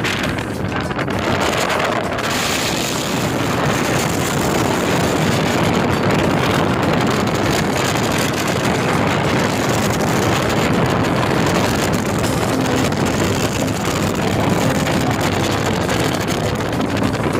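Fire boat's engine running steadily while the boat is underway, with wind buffeting the microphone.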